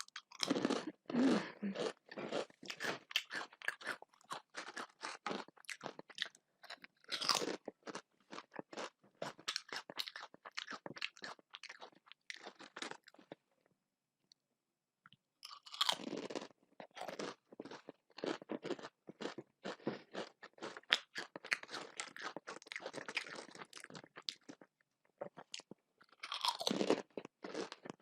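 Close-up eating sounds: a person chewing and crunching food in dense runs of wet, clicky mouth noises, pausing for a couple of seconds about halfway through.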